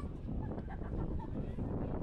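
Wind buffeting the microphone, a dense, uneven low rumble, with faint voices in the background.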